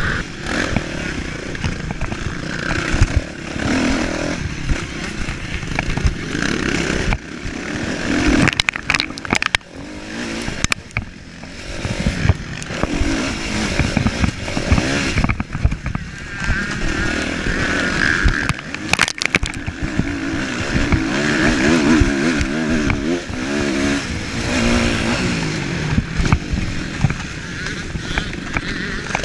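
Motocross bike engine racing, revving up and down over and over as the throttle opens and closes, with a haze of wind or dirt noise over it. The engine drops off briefly about ten seconds in and again near nineteen seconds.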